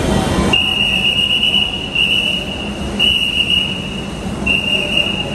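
Dhaka metro rail train in motion: a rumble that drops suddenly about half a second in, then a high, steady squeal that comes and goes four times, typical of wheel or brake squeal.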